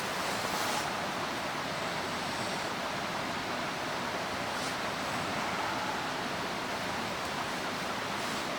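Mountain stream rushing steadily, an even hiss of running water, with a couple of faint short ticks.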